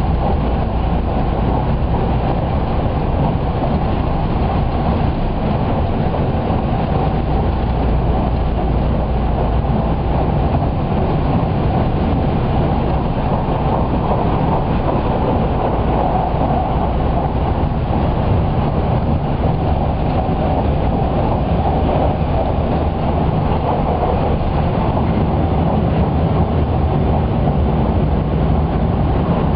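Haruka limited express train, a JR West 281 series electric multiple unit, heard from inside the passenger car while running at speed, picking up from about 100 to 120 km/h. Its wheels and running gear make a loud, steady rumble.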